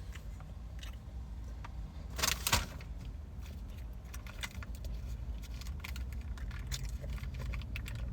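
A foil food wrapper crinkles in a short burst about two seconds in, followed by scattered small clicks of chewing, over a low steady hum.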